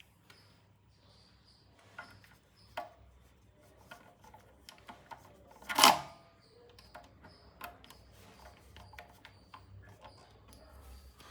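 Scattered small clicks and taps, like parts or tools being handled, with one much louder short knock about six seconds in, over a faint low hum.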